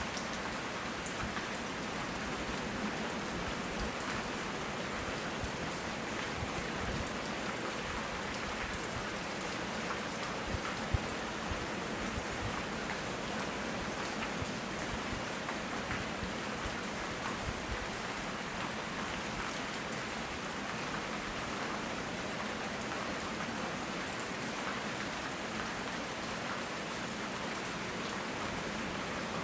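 Steady rain falling, with scattered drops ticking close by and one sharper tap about eleven seconds in.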